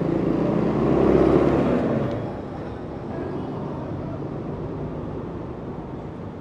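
A motor vehicle passes close by on a city street, loudest about a second in, then fades into steady traffic noise.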